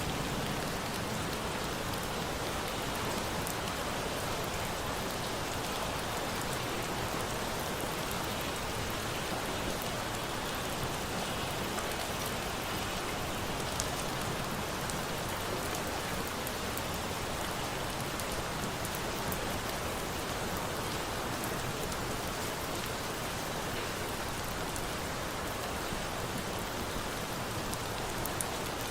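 Steady rain falling, an even hiss with scattered faint sharp ticks of drops.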